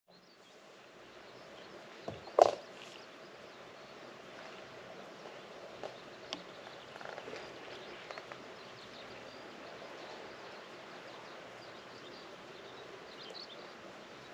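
Faint outdoor rural ambience, a steady low hiss, broken by one sharp knock about two and a half seconds in and a few lighter clicks afterwards.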